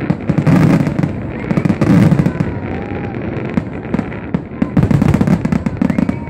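Fireworks finale: a rapid, dense barrage of bangs and crackling pops, coming in clusters over a continuous rumble.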